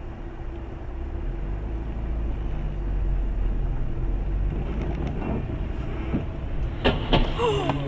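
Steady low car engine and road noise, with two sharp knocks close together near the end.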